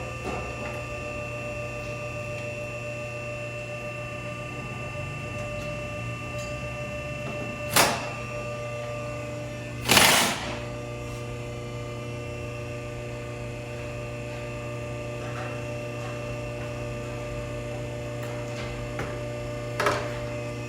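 A steady electrical hum runs throughout, with sharp metal knocks about eight seconds in and near the end. About ten seconds in there is a louder half-second noisy burst from work taking a rear shock absorber off the truck.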